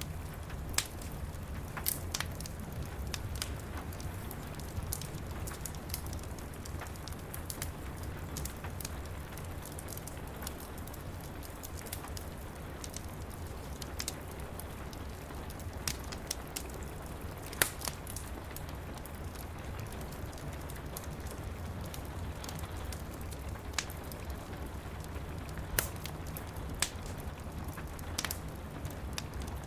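Wood fire crackling with irregular sharp pops over a steady patter of rain against window glass, with a low constant rumble underneath.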